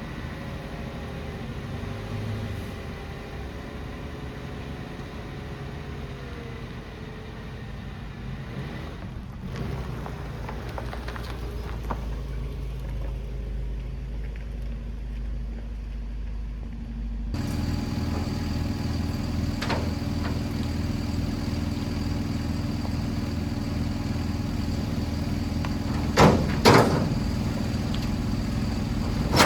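Motor vehicle engines running. A steady engine note in the first half changes suddenly, a little past halfway, to a louder, deeper engine. Two short, sharp rising sounds come near the end.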